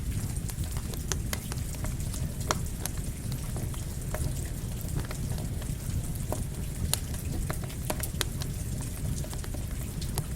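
Campfire crackling with irregular sharp pops over a steady patter of rain and a low, even rumble.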